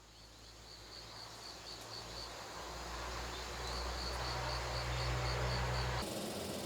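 An insect chirping in even runs of short high pulses, about five a second, over a low steady rumble that fades in. The background changes abruptly near the end.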